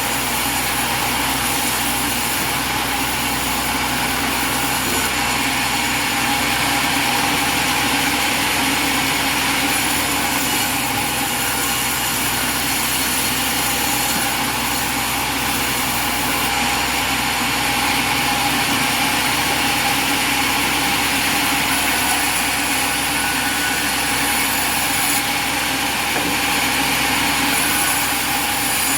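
Light sawmill's small engine running steadily at an even pitch and level throughout.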